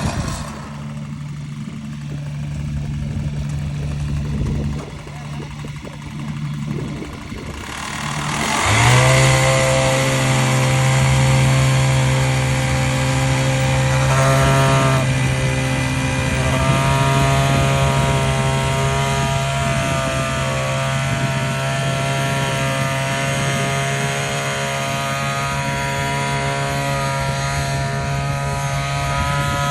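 A construction machine's engine rumbling at low speed, then revving up about eight seconds in and running steadily at high speed, with slight changes in pitch a few seconds later.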